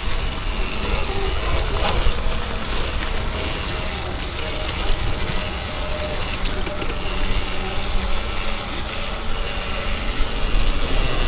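Wind buffeting the microphone and tyre noise from an electric dirt bike being ridden, a steady rushing rumble.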